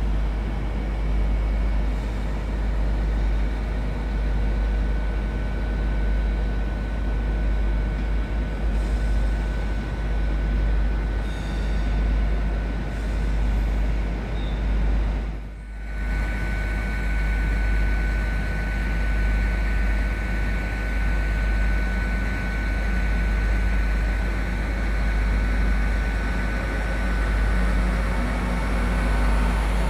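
Train standing at a platform with its engine running steadily under a constant high whine. The sound dips briefly about halfway through.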